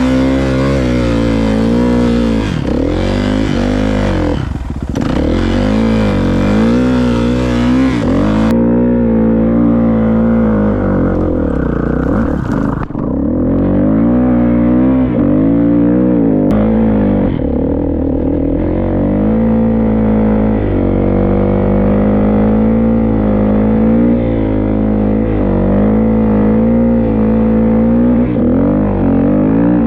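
Dirt bike engine running under load through snow, its pitch rising and falling again and again as the throttle is worked, with brief dips in revs near 5 and 13 seconds in.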